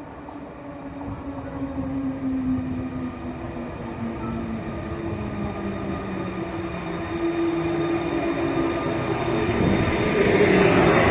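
A train approaching. Its locomotive's steady pitched engine note grows louder, and the train passes close about ten seconds in.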